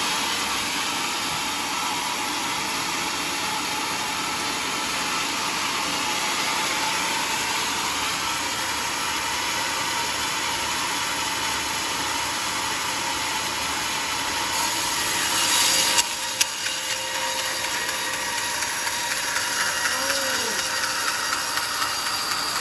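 Homemade sawmill's blade sawing through timber: a steady sawing noise that grows louder and brighter, then drops off suddenly about two-thirds of the way through, with one sharp knock just after.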